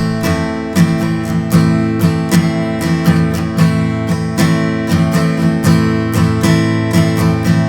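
Guitar strummed in the campfire rhythm, a repeating pattern of down and up strokes (down, down-up, up-down-up) on a held chord, played at a slightly quicker pace.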